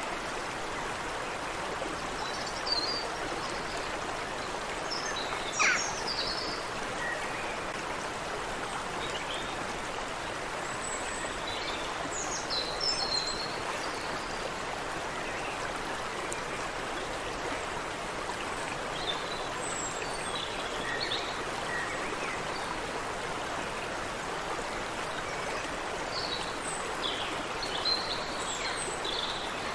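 Creek water running steadily over stones, with birds calling now and then over it in short chirps, the loudest a quick call about six seconds in.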